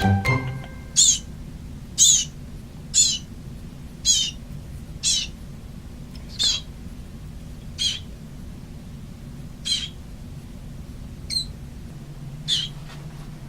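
Baby bird cheeping: short high chirps, about one a second at first and then further apart, over a steady low hum.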